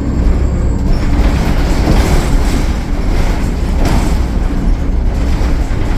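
Cummins ISL9 inline-six turbodiesel of a 2013 Gillig Low Floor transit bus running under way: a loud, steady low rumble mixed with road noise, with brief hissing rushes about two and four seconds in.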